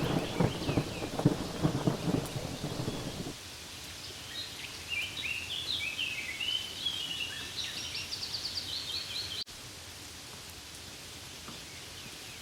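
Steady rain hiss. For the first three seconds a low rumble of thunder runs under it, then cuts off abruptly. A bird then sings runs of short, quick chirps over the rain until an abrupt cut about nine seconds in leaves only the steady rain.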